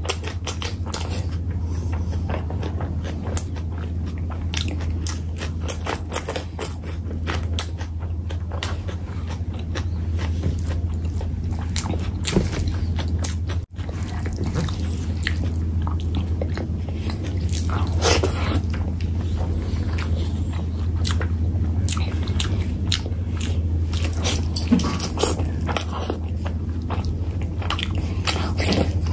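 Close-miked wet chewing, smacking and biting as a person eats chicken curry and rice by hand, the mouth sounds coming as a dense run of irregular clicks. A steady low hum sits underneath, and the sound drops out for an instant about halfway through.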